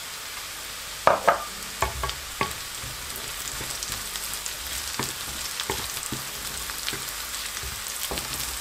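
Chopped onions, garlic and ginger sizzling steadily in hot oil in a kadhai, browning over a high gas flame. A spoon knocks and scrapes against the pan as it is stirred, with several sharp clinks in the first few seconds.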